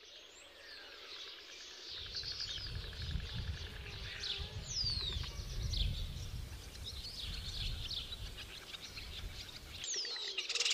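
Small birds chirping and whistling, with quick sweeping whistles and a fast trill, over a low rumble that comes in about two seconds in and stops just before the end.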